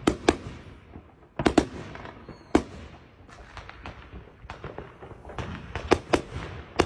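A string of sharp bangs at irregular intervals, each dying away briefly, like firecrackers going off, with several louder cracks among many smaller pops.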